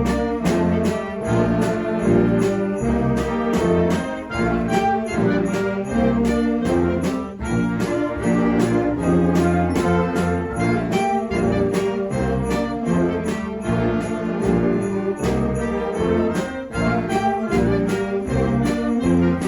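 A school band playing a holiday piece, brass carrying the tune over sleigh bells struck on a steady beat of about two to three strokes a second.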